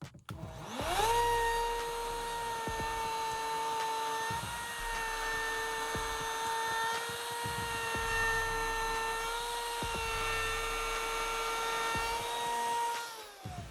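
Electric wood router spinning up to a steady high whine about half a second in, running at full speed with slight dips in pitch as it is loaded, then winding down near the end.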